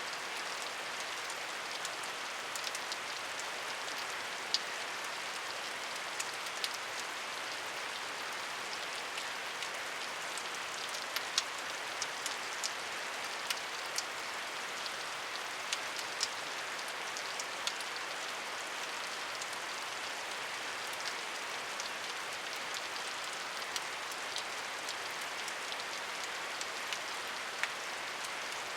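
Steady rain falling, a continuous hiss with many scattered individual drops ticking sharply on a hard surface.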